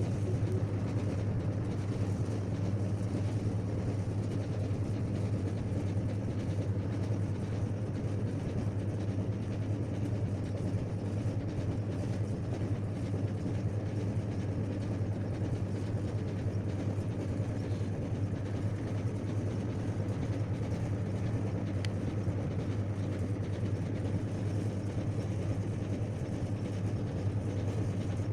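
An engine running steadily at one constant speed, with a deep even hum.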